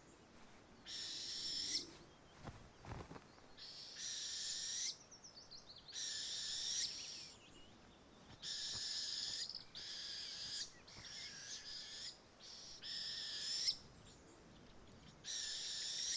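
Northern hawk owl fledglings giving raspy, hissing begging calls, about eight calls of roughly a second each, repeated every couple of seconds as the young wait to be fed.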